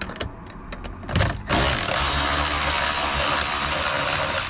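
Ratchet with an extension spinning out a Torx screw from car dash trim: a few knocks as it is fitted, then from about a second and a half in a fast, continuous ratcheting that stops abruptly at the end.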